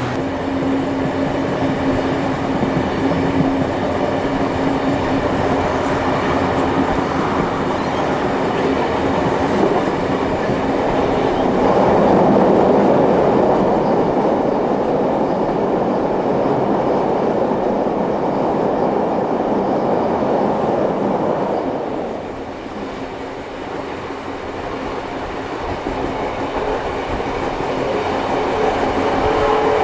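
Steam-hauled passenger train running along the line, heard from on board: a continuous rumble of carriage wheels on the rails with some clickety-clack, and a steady hum in the first part. The noise grows louder for about ten seconds in the middle, then eases off.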